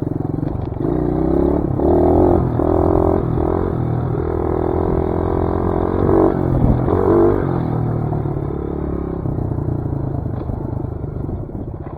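Dirt bike engine running under throttle while being ridden, its pitch and loudness stepping up and down. It is loudest about two seconds in and again around seven seconds in, then eases off toward the end.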